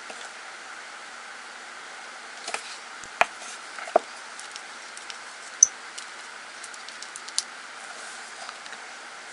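Scattered light clicks and taps of nail-art stamping tools being handled, a few sharper ones standing out, over a steady background hiss.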